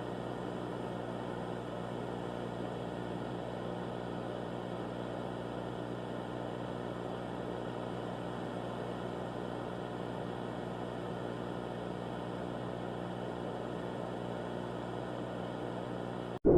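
A steady, unchanging hum with a hiss, holding several fixed tones, that cuts off abruptly at the very end.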